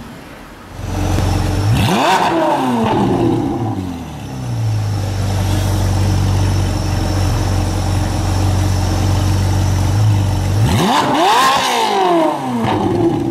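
High-performance car engine revved hard twice, a quick climb in pitch and a slower fall, about a second in and again near the end, with a steady low idle in between.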